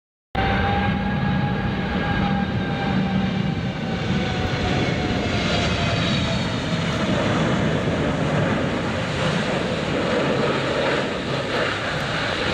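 Twin-engine Boeing 777 jetliner on approach to land, its engines running with a loud rushing noise and a whine that slowly falls in pitch. The sound cuts in abruptly just after the start.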